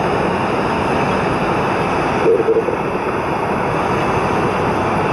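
Singapore Airlines Airbus A380's jet engines running, a loud, steady rush of engine noise.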